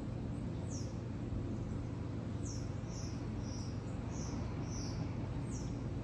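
Songbird giving short, high, down-slurred chirps: one about a second in, then a quick series of about six from two and a half seconds on. A steady low rumble runs underneath.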